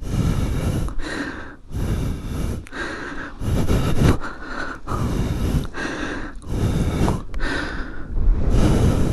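A person breathing hard and fast close to the microphone, each breath in or out coming about every second, out of breath after heaving a fallen heavy motorcycle upright.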